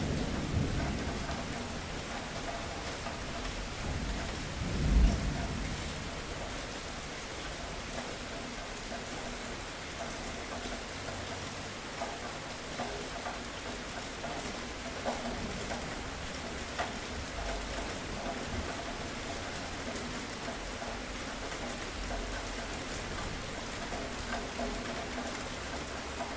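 Steady rain falling, with scattered drips. A rumble of thunder at the start eases, then swells into a louder crack about five seconds in and fades, leaving only the rain.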